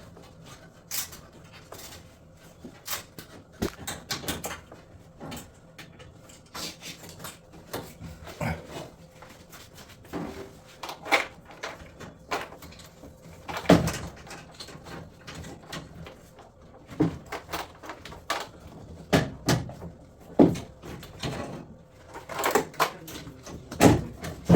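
Irregular knocks, clicks and clunks of hands and tools working on drum washing machine parts, with a few louder bangs about 14 s in and near the end.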